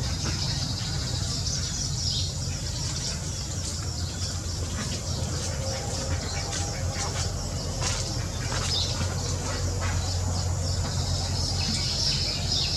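Outdoor ambience of small birds chirping in short, scattered calls over a steady high insect buzz and a low steady rumble.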